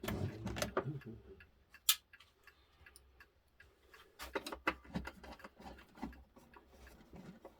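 Irregular light clicks and taps of a clock case and its small parts being handled, with one sharper click about two seconds in.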